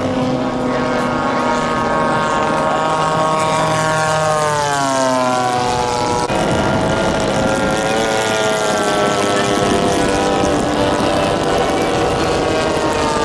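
Giant-scale radio-control model warplane flying past with its propeller engine running steadily. The pitch drops as it passes about four to five seconds in. The sound changes abruptly about six seconds in, then runs steady again.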